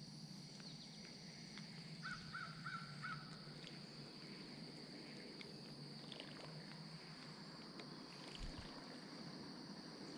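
Faint lakeside ambience with a steady high-pitched insect drone; about two seconds in, a bird gives four short calls in quick succession.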